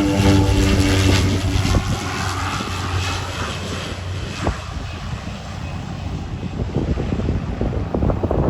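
An aircraft's engines passing close by, their tone dropping in pitch and fading into a broad rushing noise that slowly dies away. Wind buffets the microphone near the end.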